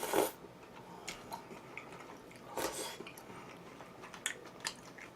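Close-up mouth sounds of a person chewing food, with scattered small wet clicks and smacks and a louder brief mouth noise about two and a half seconds in.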